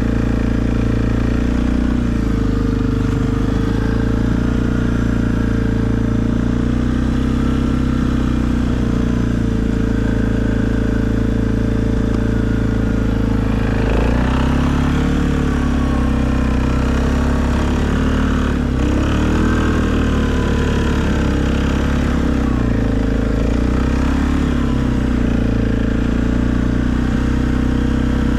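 Suzuki KingQuad ATV engine running steadily while plowing snow, with its pitch shifting about halfway through and bending up and down a few seconds later as the throttle changes.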